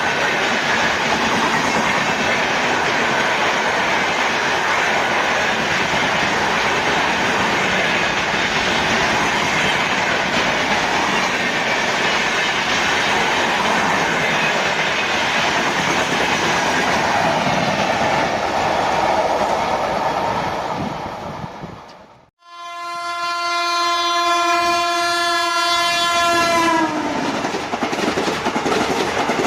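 An Indian Railways train rushing past at speed with wheel clatter on the rails. About two thirds of the way in the sound drops away abruptly, and a train horn sounds one long blast of about four seconds whose pitch sags at the end. The rush of a passing train then resumes.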